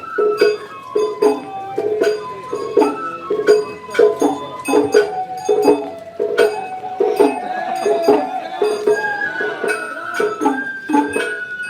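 Japanese festival hayashi music: a high, held flute melody over quick, steady percussive strikes.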